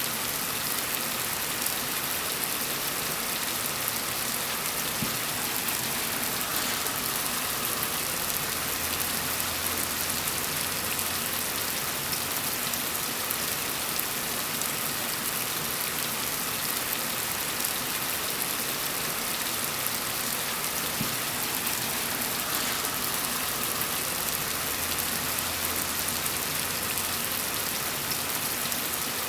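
Steady gentle rain falling, an even hiss of drops. A faint low rumble comes and goes twice underneath it.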